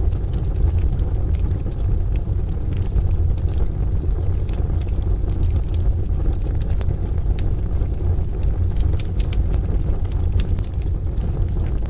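Wood fire crackling, with frequent small sharp pops and snaps, over a steady low rumble of a rain-and-thunder ambience.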